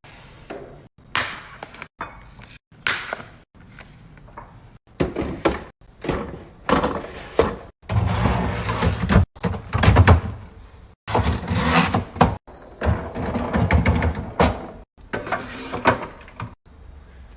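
A quick run of short clips of hard plastic bins, containers and food items being handled, clattered and set down, with door-like thuds and knocks and abrupt cuts every second or so.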